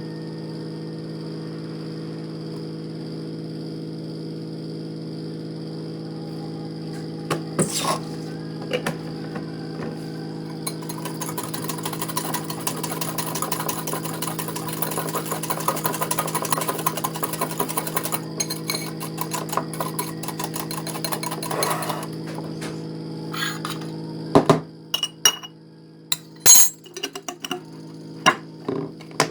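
Steady hum of a running kitchen appliance, with a dense run of quick small scraping and clinking strokes in the middle. The hum cuts off suddenly about 24 seconds in, followed by sharp clinks of dishes and utensils.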